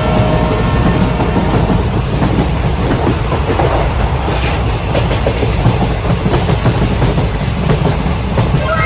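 Model train running along its track: a steady, continuous rattling clatter of wheels on rail.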